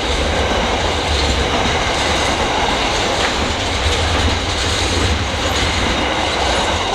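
Freight train rolling past, with a steady rush of wheel and rail noise.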